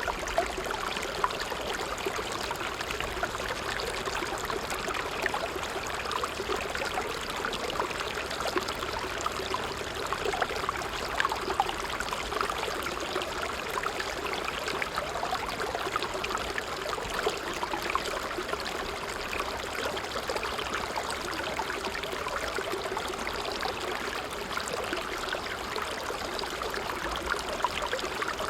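A creek's water flowing steadily, an unbroken babble of many small splashes.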